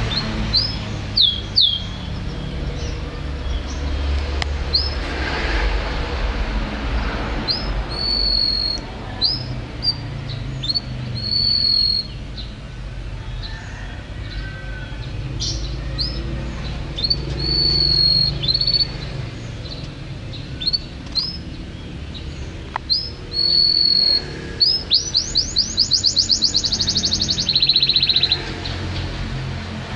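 A songbird singing a series of short, clear whistled notes, some short and upward-flicked and some held briefly, with a quick run of repeated rising notes ending in one held whistle near the end.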